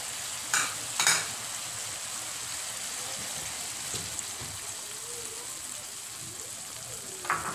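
Chicken pieces sizzling steadily in hot oil in a wok as they sauté to release their juices, with two short sharp clicks about half a second and a second in.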